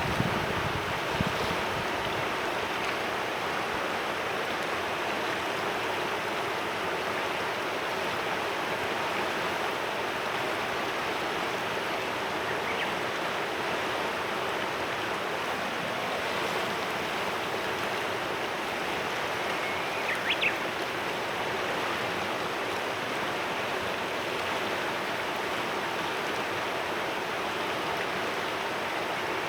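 Clear mountain river rushing steadily over stones, with a couple of low thumps in the first second or so and a short bird chirp about two-thirds of the way in.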